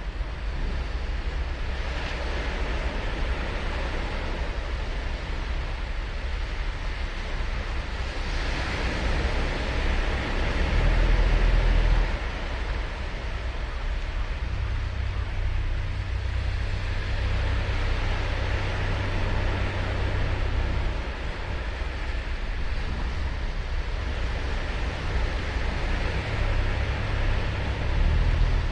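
Ocean waves breaking and washing up a sandy beach, a steady rush that swells as each wave comes in. Low wind rumble on the microphone comes and goes, loudest about ten to twelve seconds in.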